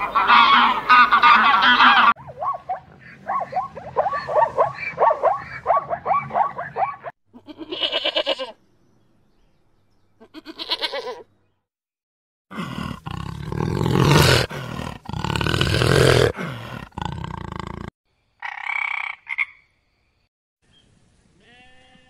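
A run of different animal calls. It opens with Canada goose calls, then has a rhythmic series of short repeated calls, about two a second for some five seconds, and two brief calls. Next come several seconds of loud, deep tiger growls, the loudest part, and a short higher call near the end.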